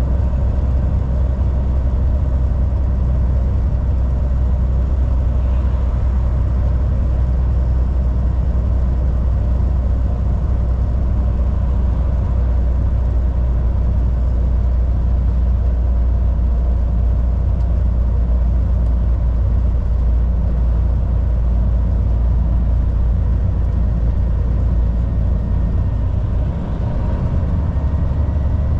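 Volvo VNL 760 semi truck driving at highway speed: a steady low engine drone with road and tyre noise, dipping briefly near the end.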